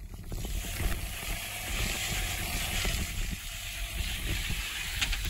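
Suzuki Jimny's engine running under load as the car pulls away from a standstill up a steep dirt slope.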